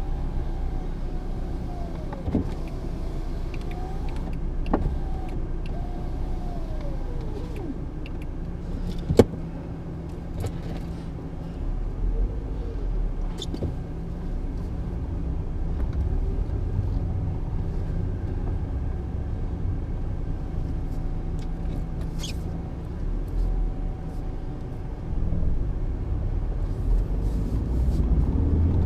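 1995 BMW E36 318i driving on a road test: steady low road and drivetrain rumble with the drone of the rear wheel bearings, one freshly replaced and the other still worn, together only slightly better than before. A single sharp knock about nine seconds in, among a few lighter clicks.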